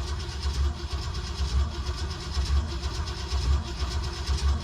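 A 1976 Jeep J10 pickup's engine being cranked over on its starter without firing, with a steady uneven beat of compression strokes about twice a second. It doesn't catch because the ignition is giving no spark.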